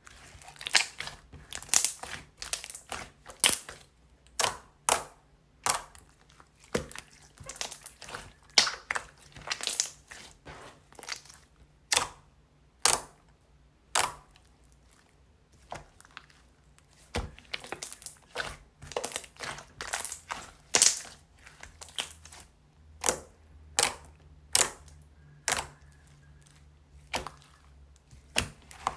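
Soothing-gel slime being squished and pressed by hand, making sharp, irregular sticky clicks and pops, one to three a second, with a short lull midway.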